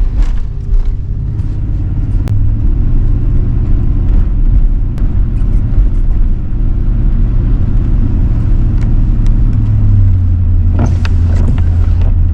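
Road noise inside a moving truck's cab: a steady low rumble of engine and tyres, with scattered faint clicks and a brief rushing swell about eleven seconds in.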